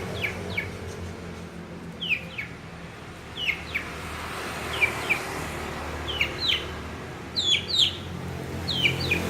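Long-tailed shrike (cendet) giving short, sharply falling chirps, mostly in pairs about every second and a half, in imitation of a lovebird's calls.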